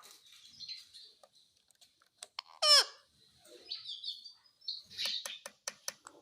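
Indian ringneck parrot chirping softly, with one loud wavering call a little before halfway. Near the end comes a quick run of about half a dozen sharp clicks.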